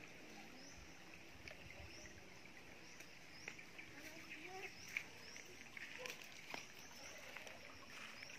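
Faint outdoor ambience with a bird repeating a short, high, rising chirp about once a second.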